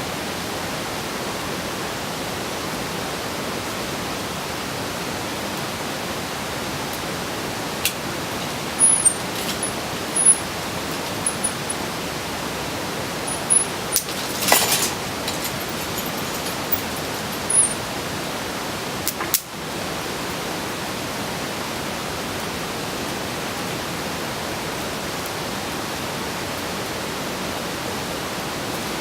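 Steady rushing noise, like running water or wind, with a few faint short high ticks and clicks in the middle.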